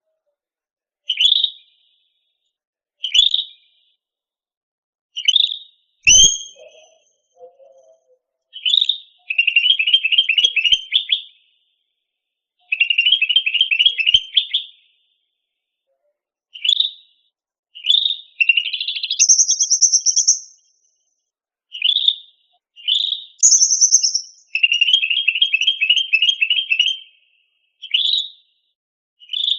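Cucak rante bird singing: short separate chirps at first, then rapid rattling trills of a second or two broken by a few higher, sharper notes. A single short knock about six seconds in.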